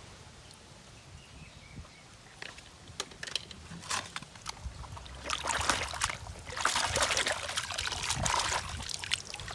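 Water splashing and trickling as a small plastic toy car is handled in water, with sharp plastic clicks and taps about three seconds in and two longer spells of splashing in the second half.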